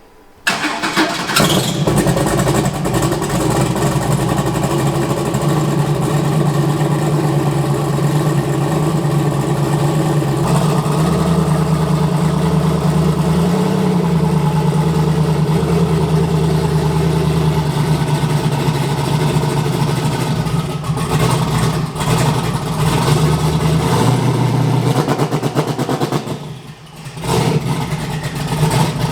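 Twin-turbo AMC Spirit drag car's engine starting up and running steadily after its rocker and fuel-injector work, dipping briefly near the end.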